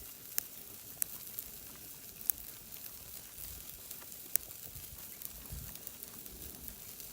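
Meat sizzling on a charcoal grill: a steady hiss with a few sharp pops of spitting fat.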